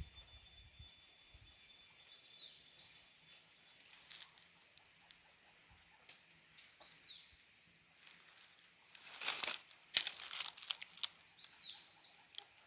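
Forest ambience: a bird repeats a call of a falling whistle followed by a short note, three times about four to five seconds apart, over a steady high insect drone. Around nine to ten seconds in, a few loud, brief rustling noises close by.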